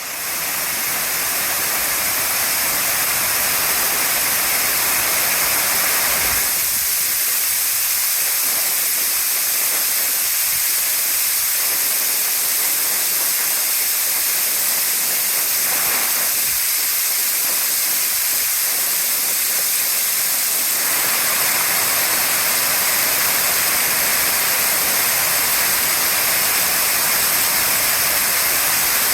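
Waterfall: a steady rush of falling water, with the fuller, lower part of the sound dropping away for a long stretch in the middle.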